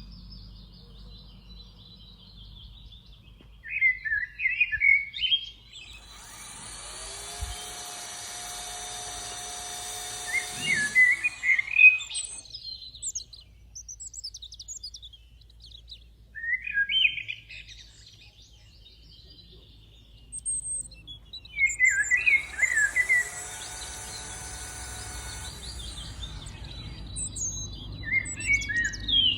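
A small songbird singing short chirping phrases, repeated every few seconds. Twice a steady hissing sound with a low hum comes in and fades away over about five seconds.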